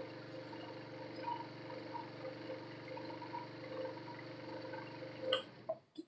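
Scroll saw running with a steady hum and small irregular ticks from the blade cutting. Near the end there is a click and the saw winds down and stops.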